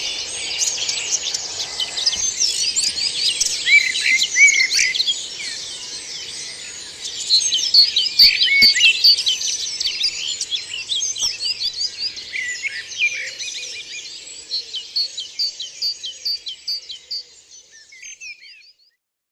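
Woodland dawn chorus in spring: many birds singing at once in dense, overlapping song, fading away near the end.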